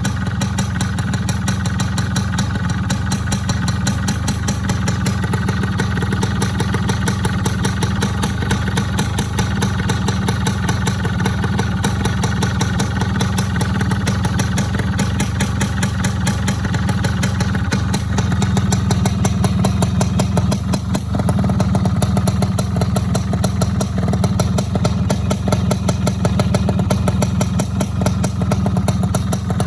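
Racing-modified Yamaha F1Z-R's 110cc single-cylinder two-stroke engine running steadily at idle. It gets a little louder from about eighteen seconds in, with a brief dip a few seconds later.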